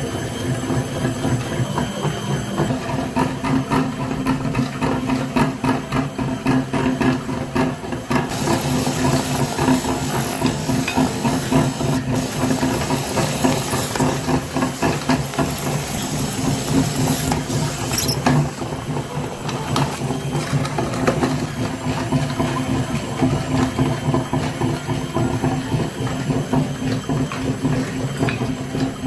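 A small motor and gears running steadily with a fast, even rattle, like a toy mini tractor driving along. A brighter hiss comes in from about 8 to 18 seconds in.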